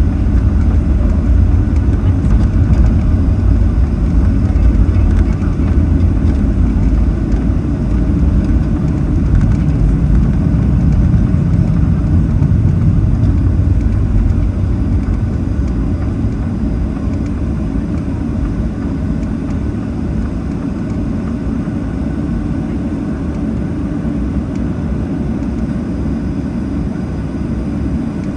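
Boeing 737-800 cabin noise while taxiing: a steady low rumble from the CFM56-7B jet engines at taxi power and the aircraft rolling along the taxiway. It eases off a little about halfway through.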